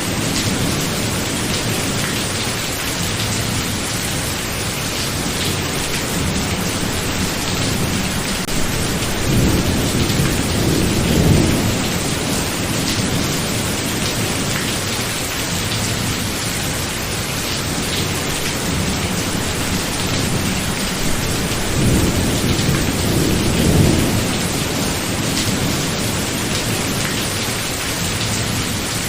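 Thunderstorm: steady rain, with thunder rumbling low near the start, again around ten seconds in, and once more a little past twenty seconds.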